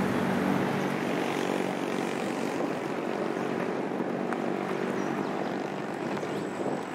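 Steady low drone of a diesel-hauled passenger train running along the line into the distance, with the engine hum over a wash of rolling noise.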